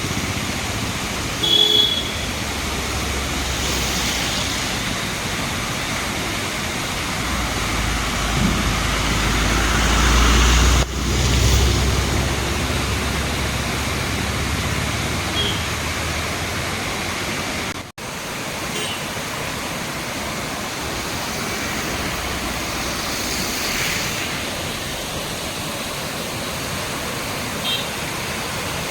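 Waterfall rushing steadily, with a low rumble in the first half and brief cuts at two points.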